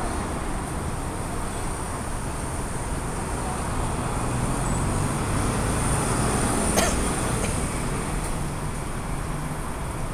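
Steady rumbling background noise like road traffic, with a single sharp click a little after halfway.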